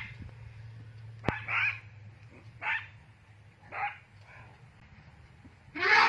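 An animal giving four short, sharp barking calls, spaced about a second apart with a longer gap before the last, over a steady low hum.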